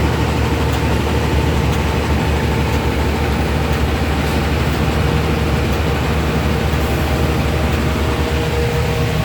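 A road vehicle running steadily: a constant, even low engine rumble mixed with road noise.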